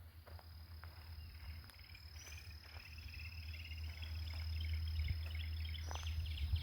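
Garden ambience with insects: a steady high-pitched whine that starts just after the beginning, joined about two seconds in by a fast pulsing chirr. Underneath is a low rumble on the microphone that grows louder, with a few faint clicks.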